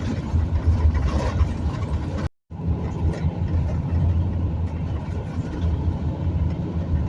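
Steady low road-and-engine rumble of a vehicle cruising along a highway, heard from inside the cabin. The sound cuts out completely for a split second about two seconds in, then carries on.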